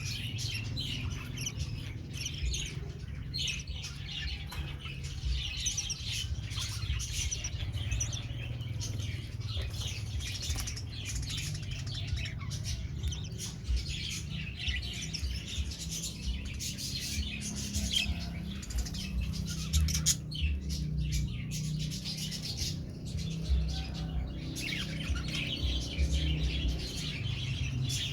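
A group of budgerigars chirping and chattering continuously, many voices overlapping, thinning briefly about two-thirds of the way through. A steady low hum runs underneath.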